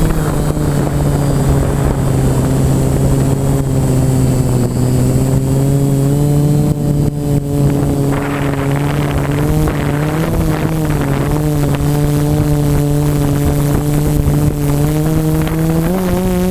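Electric motors and propellers of an FPV model aircraft, a steady droning whine that holds mostly level, wavers in pitch a little and rises near the end, with wind noise on the on-board microphone.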